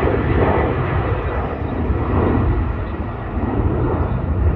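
Jet airliner engines, a loud steady noise.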